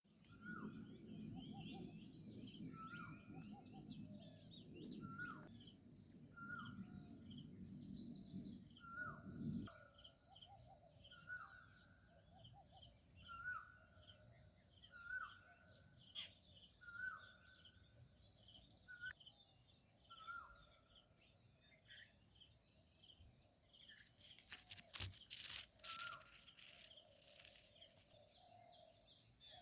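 Forest birds calling faintly. One bird repeats a short call about every second and a half, with other chirps around it. A low rumble stops suddenly about ten seconds in, and a few sharp clicks come near the end.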